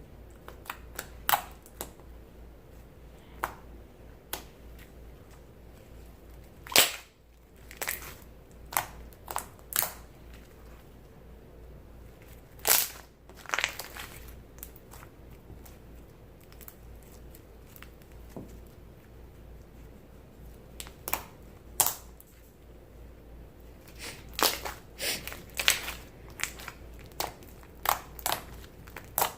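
Clear-glue slime being poked with fingers, giving irregular sharp pops and clicks, sometimes singly and sometimes in quick clusters, with a thicker run of them near the end.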